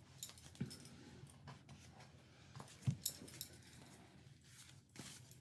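Tarot cards being handled and laid down on a table: scattered light clicks and taps, the loudest a little under three seconds in.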